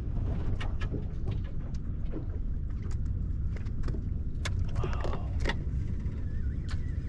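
Steady low rumble of a boat under way, with scattered sharp clicks and taps, and a faint wavering high tone near the end.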